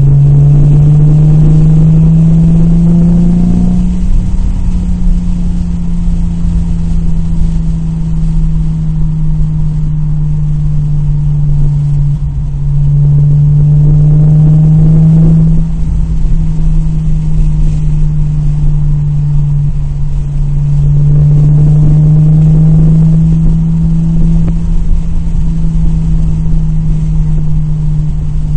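2002 Nissan Maxima's 3.5 L VQ35DE V6 running under load, a steady drone whose pitch climbs over three or four seconds and then levels off, three times: at the start, about twelve seconds in and about twenty-one seconds in. The engine has a random misfire (P0300) under diagnosis.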